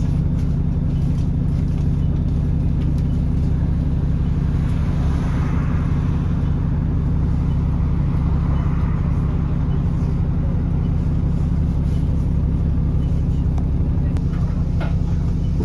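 Alexander Dennis Enviro400 E40D bus running steadily, heard on board, with a constant low engine drone. Over it sits a loud hoover-like whoosh from the cooling fan, which grows in the middle; the fan working this hard goes with the engine running hot.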